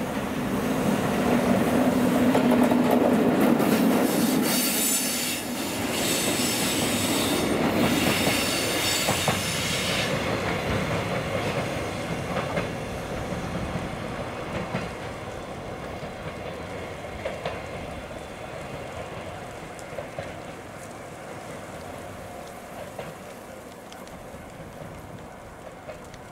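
An EF65 electric locomotive and its train of flat wagons passing on a curve: first the locomotive's steady low hum, then the wheels clattering over the rail joints and squealing shrilly for a few seconds, fading gradually as the train moves away.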